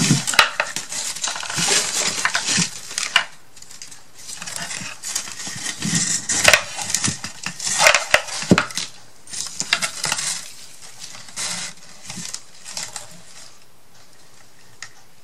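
Paper and small craft pieces being handled on a work surface: rustling with irregular sharp clicks and taps, busier in the first two thirds and thinning out near the end.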